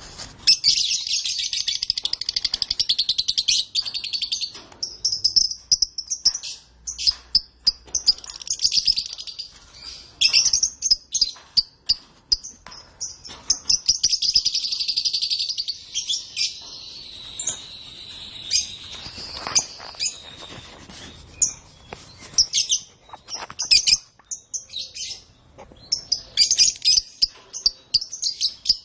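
Domestic canary singing: long, rapid trills and runs of short high notes, with the longest rolling trills near the start and about halfway through.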